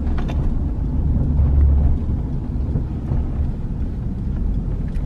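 Road rumble inside a moving car: a steady low rumble that swells briefly in the middle.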